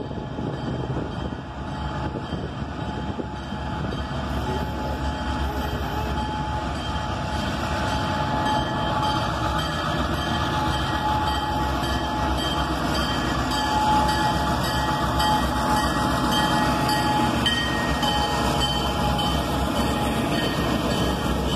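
CSX freight train's diesel locomotives running as they approach and pass close below. The rumble grows louder over the first several seconds, then holds steady as the units and the first freight cars roll by.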